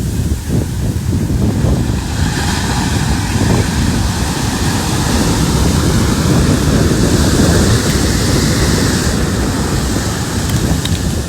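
Large ocean waves breaking in heavy shorebreak: a rush of surf swells about two seconds in and is loudest some seven to nine seconds in before easing off, over a steady rumble of wind on the microphone.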